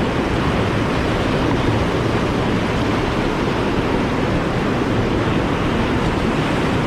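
Steady rushing roar of whitewater pouring through a river hole.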